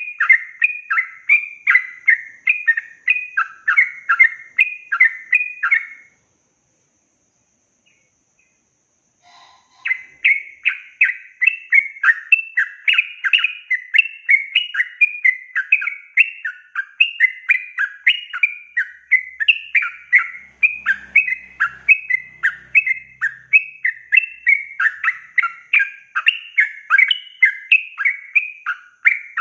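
Yellow-vented bulbul (trucukan) singing a long, fast run of repeated chattering notes, about four a second. The song breaks off into total silence about six seconds in and starts again a few seconds later.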